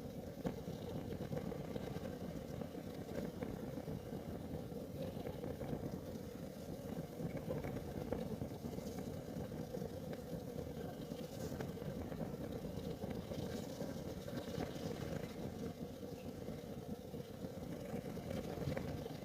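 Kerosene heater burning: a steady low rumble of the flame with a band of hum in the middle, and a few faint crackles scattered through.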